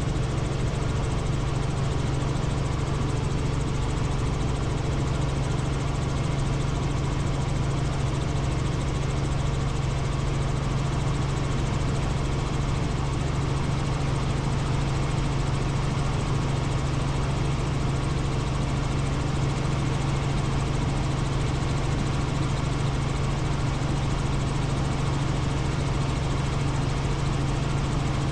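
Helicopter in flight: the steady drone of its engine and rotor, with a strong constant low hum and no change in pitch or level.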